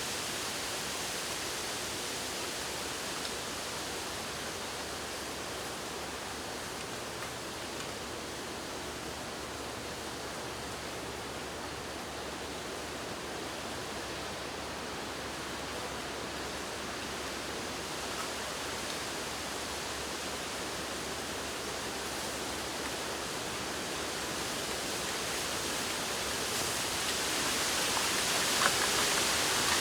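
Wind blowing through a bamboo grove, a steady wash of leaf noise that swells louder near the end, with a few faint clicks.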